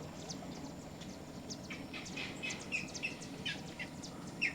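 A flock of birds in a tree chirping and calling, many short, high calls overlapping, busier from about halfway in.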